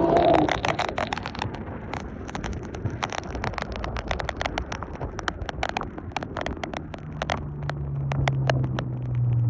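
Dodge 350 diesel truck engine: a revving run drops away at the start, leaving a low rumble under many sharp clicks and crackles. About seven seconds in, a steady low engine drone builds up again.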